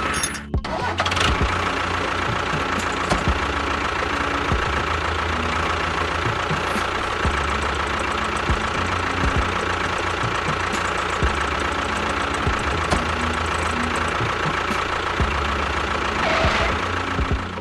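Steady chugging engine sound of a tractor running, with a constant high whine over it; it drops out briefly about half a second in.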